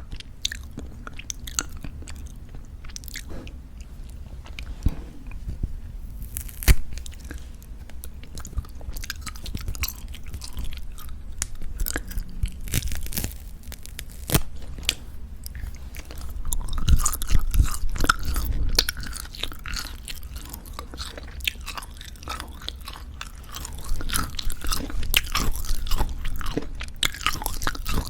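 Close-up chewing and biting of dried pork jerky: tough, sticky tearing and moist chewing with irregular crackles, growing denser and louder in two stretches, midway and near the end.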